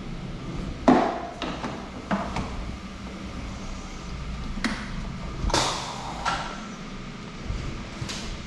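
A series of irregular knocks and clunks, about eight in all, the loudest about a second in, over a low steady hum.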